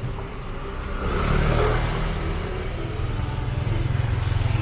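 Street traffic: motor vehicle engines running close by, with one passing about a second in and a steady low engine drone building after about three seconds.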